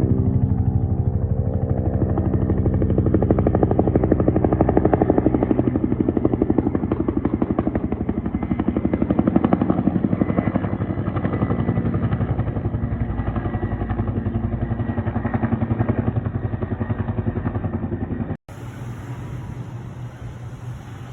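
Aircraft engine running close by: a loud, steady, rapidly pulsing drone with a strong pitched hum. About 18 seconds in it cuts off suddenly and is replaced by a quieter, hissier engine sound.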